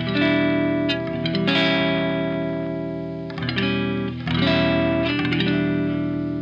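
Electric guitar played through a germanium/silicon Tone Bender MKII-style fuzz pedal: distorted chords struck about four times and left to ring out with long, slowly fading sustain.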